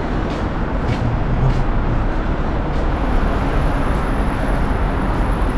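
Steady road traffic noise from passing vehicles, a dense continuous rumble heaviest in the low end. A faint high-pitched whine comes in about halfway.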